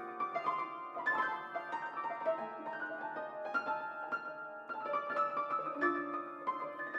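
Solo piano improvisation: a busy flow of struck notes in the middle and upper register, overlapping and ringing on, with few low bass notes.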